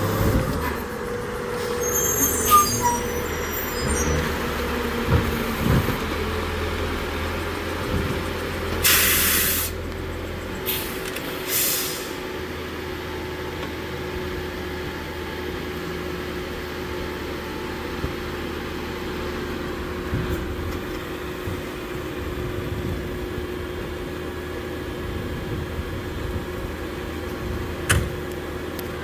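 CCC New Way Sidewinder garbage truck's engine running steadily, with a loud air brake hiss about a third of the way in and two shorter hisses soon after. A few metallic clanks come early and one near the end.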